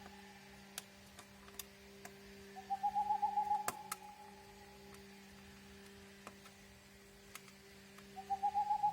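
A repeated trilling animal call, about a second long, heard twice, five to six seconds apart, over a faint steady hum and a few sharp clicks.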